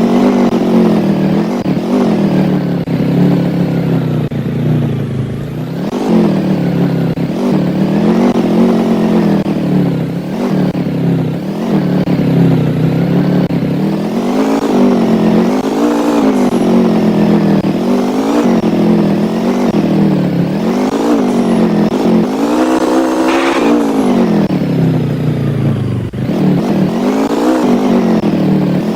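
A vehicle engine running, its pitch rising and falling again and again about every second or two as the throttle comes on and off.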